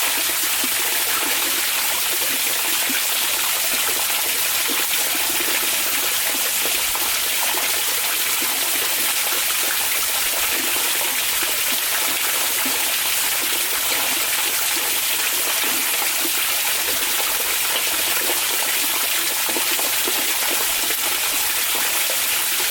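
Onsen hot-spring water flowing, a steady, unbroken wash of running water.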